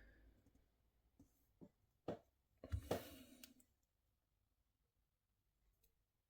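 Near silence with a few faint clicks and taps from small diecast model parts being handled during a repair, a handful spread over the first few seconds.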